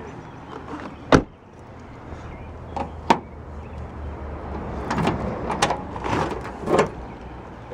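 A car door shutting with one loud thud about a second in, a sharp click about two seconds later, then a run of clunks and rattles near the end.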